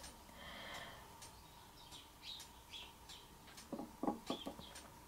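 Faint, short bird chirps in the background, with a few soft knocks about four seconds in.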